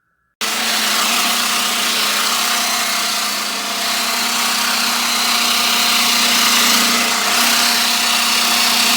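Conair 3-in-1 Styling Hair Dryer (SD6RN, 1875 W) running: a loud steady rush of air over a steady motor hum, starting abruptly about half a second in.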